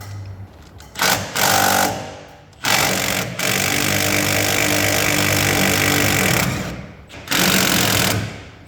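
Impact wrench running in three bursts, the middle one about four seconds long.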